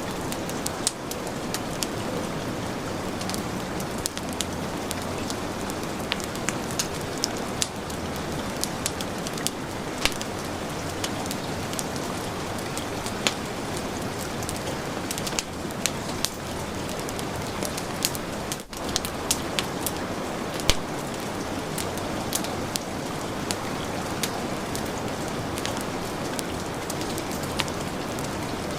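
Heavy rain falling in a steady hiss, mixed with a wood fire crackling in frequent sharp pops. The sound drops out for a moment about two-thirds of the way through.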